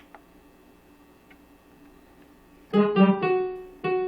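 Korg N364 keyboard playing a layered musette-accordion and piano patch: short repeated chords start nearly three seconds in after a quiet stretch, with a brief break just before the end.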